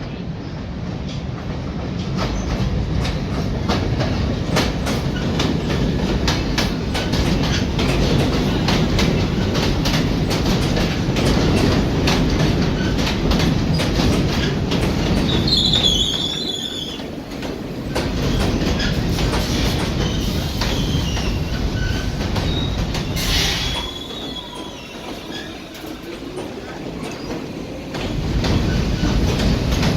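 R46 subway train running through the station without stopping: a steady loud rumble of wheels with rapid clicking over the rail joints. It is broken by a brief high wheel squeal about halfway through and another a few seconds later, and the rumble eases for a few seconds near the end before building again.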